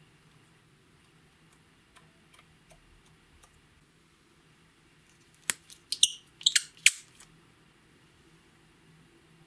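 Slime being worked by hand, giving a few faint clicks and then a quick run of sharp pops and crackles from air pockets bursting about five and a half to seven seconds in.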